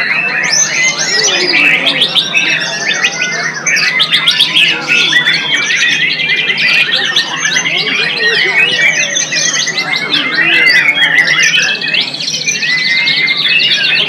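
White-rumped shama (murai batu) singing loudly and without pause, a dense stream of fast whistles, trills and chattering phrases, with other songbirds overlapping.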